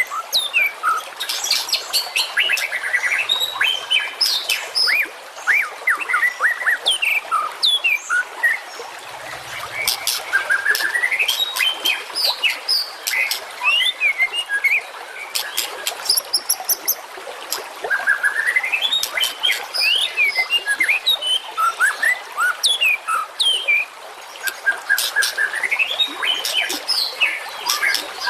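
Songbird calls from a bird-training recording. Rapid sharp chips and short whistles come thick and fast, and a rising run of notes comes back about every eight seconds.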